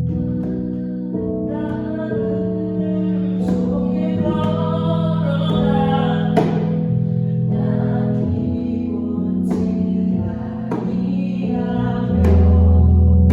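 Worship song: a vocalist sings over sustained keyboard chords, with a djembe struck every few seconds. The bass swells louder near the end.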